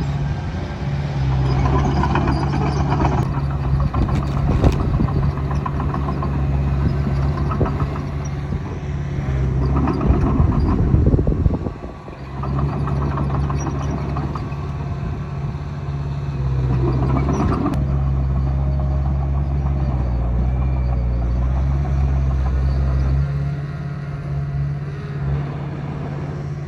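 Diesel engine of a Komatsu D20A bulldozer running steadily under load while pushing soil. It gets louder for a few stretches, most strongly around ten to eleven seconds in, and dips briefly just after.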